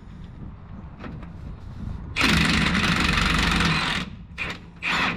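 Power wrench run in a burst of just under two seconds on a rear shock-absorber bolt of a Ford F-150, then in two brief blips near the end, with quieter clatter of tools and parts between.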